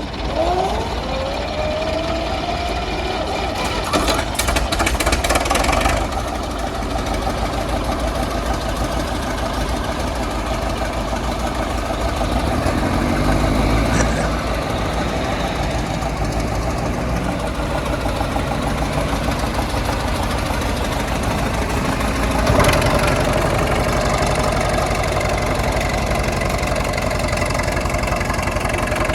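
Heavy machinery engine running steadily under load. Its pitch rises in the first couple of seconds as it revs up, and it steps up again near the end.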